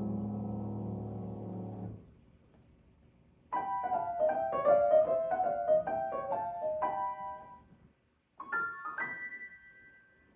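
Piano playing: a low held chord dies away about two seconds in, then after a short pause comes a run of quick high notes, a brief stop, and a few last notes ending on a high note left to ring and fade.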